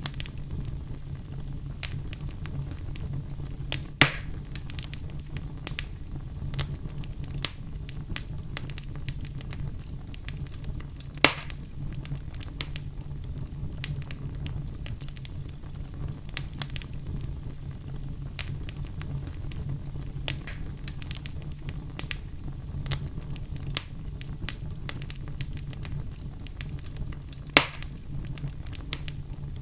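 Wood fire burning in a fireplace with a steady low rumble and constant crackling, with three louder pops about 4, 11 and 27 seconds in.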